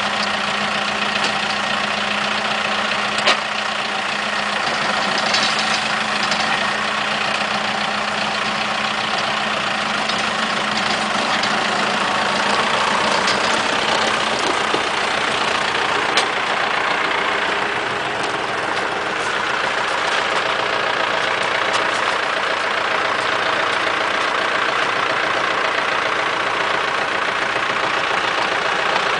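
Diesel engine of a Cronimo DF-404 small tractor running steadily, its pitch shifting a little about two-thirds of the way through, with a couple of sharp knocks along the way.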